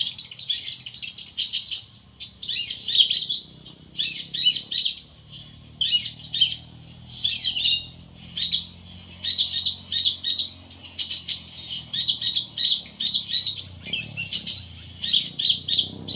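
Small birds chirping in rapid, repeated high twittering phrases broken by short pauses, over a steady high insect whine.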